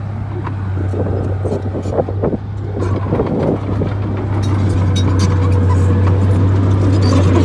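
Bulldozer's diesel engine running with a steady low drone, with a run of knocks and scraping in the first few seconds. It grows louder near the end.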